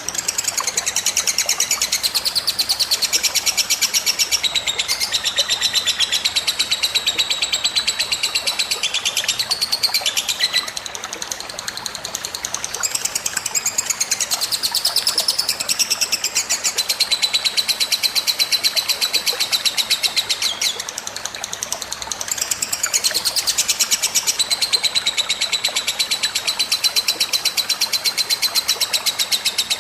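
Songbird song from a masteran tutor recording: a continuous, rapid chattering song with quick repeated notes, easing briefly about eleven and twenty-one seconds in.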